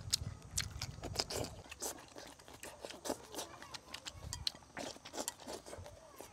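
Chewing and eating sounds at close range: irregular small clicks, smacks and crunches as food is bitten and chewed.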